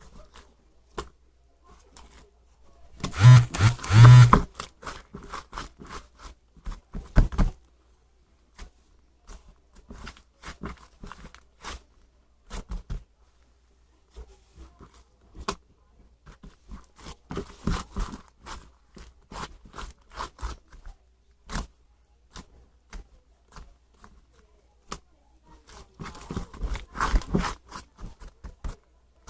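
Close handling noises: scattered clicks and taps with bursts of rustling and scraping, the loudest about three to four seconds in.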